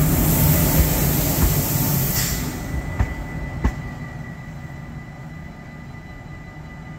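Locomotive-hauled train running along the track, its low rumble fading steadily as it draws away. There is a short hiss about two seconds in and two sharp clicks a second later.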